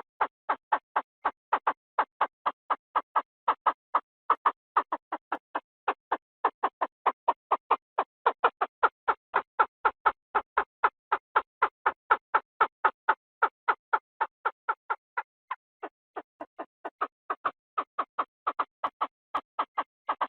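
Field quail calling (นกกระทาทุ่ง): a steady train of short, clipped notes, about four a second, dipping briefly softer about fifteen seconds in.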